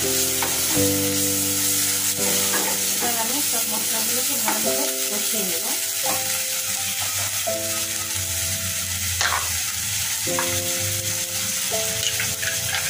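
Onions and ground spice paste frying in hot oil in a steel kadai: a steady sizzle while a wooden spatula stirs and scrapes the pan, with a light knock about nine seconds in. The spices are being fried in oil before yogurt and meat go in. Background music of held notes plays along.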